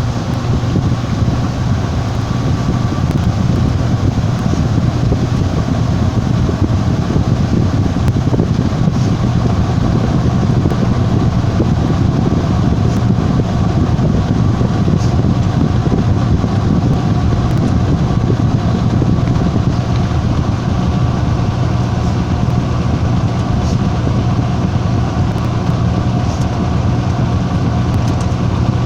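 Washing machine running in its spin cycle: a steady, loud mechanical hum with a constant low drone and a faint high whine.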